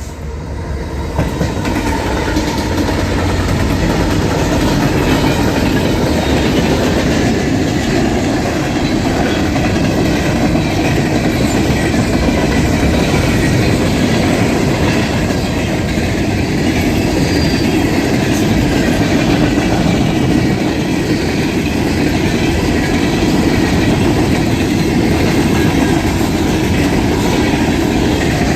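Freight train running past at speed, its steel wheels clattering steadily over the rails. The sound swells over the first couple of seconds, then stays loud and even.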